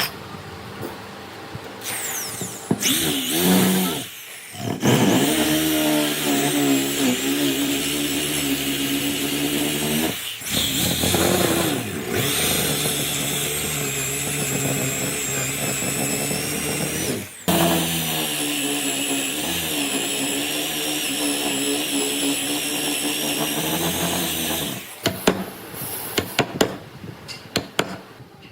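Electric power tool running in several long bursts with brief stops between them, its motor pitch dipping and recovering as it works the wood. A few sharp taps near the end.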